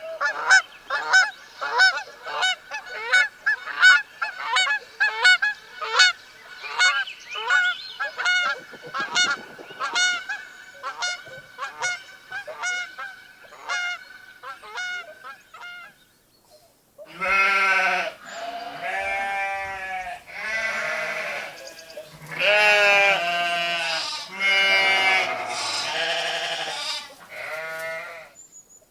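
Geese honking in a long run of rapid calls, two or three a second, fading out over about fifteen seconds. After a short pause come about six drawn-out, wavering bleats.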